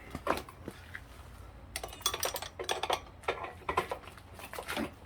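Metal tools clinking and clicking against a bicycle pedal and crank arm, in uneven clusters of sharp clicks.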